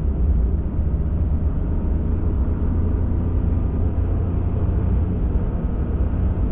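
Ford F-150 Raptor pickup driving on a snowy forest road: steady low engine and tyre rumble.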